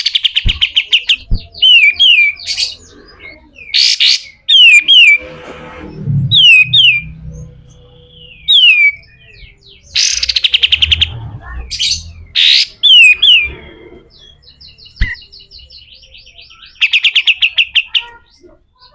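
Kapas tembak songbird calling: fast trills of evenly repeated notes, quick down-slurred whistles, and several harsh rasping bursts (besetan) between the phrases.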